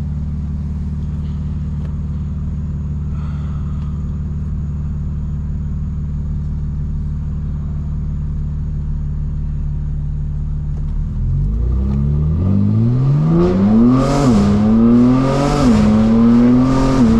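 Straight-piped BMW M4 Competition's twin-turbo inline-six holding a steady low drone, then about eleven seconds in accelerating hard. The engine's pitch climbs, drops twice at quick upshifts and climbs again.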